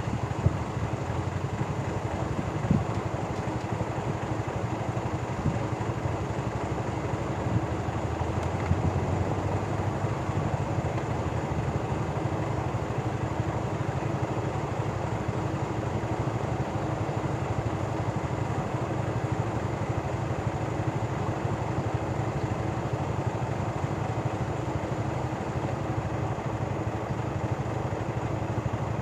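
Diesel locomotive engine running with a steady low hum, with a few short knocks in the first few seconds.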